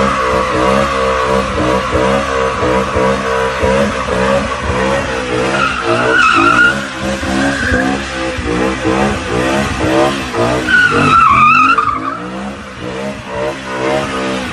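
A car drifting: its engine revs hard, the pitch wavering up and down with the throttle, while the tyres squeal, briefly about six seconds in and again more strongly about eleven seconds in.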